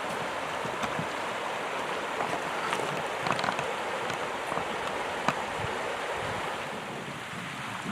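Small stream rushing steadily over its bed, with a few short clicks and splashes.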